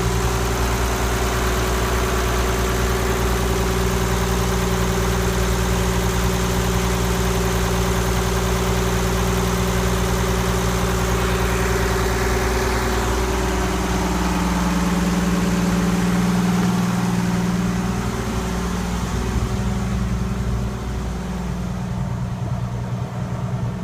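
Ford Lehman 120 six-cylinder marine diesel running steadily a little above idle on its freshly fitted, rebuilt injection pump, an even, healthy running sound. It gets a little quieter in the last few seconds.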